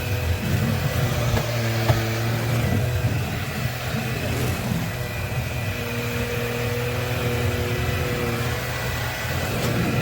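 Bissell PowerClean FurGuard cordless stick vacuum running steadily, a constant motor hum with faint shifting tones above it, and a brief click about two seconds in.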